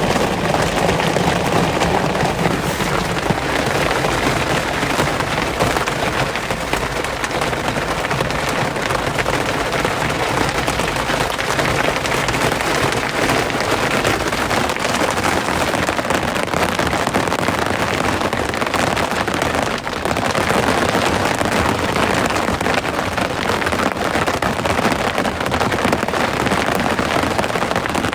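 Rain falling steadily as a dense, even hiss of drops, with a brief dip about twenty seconds in.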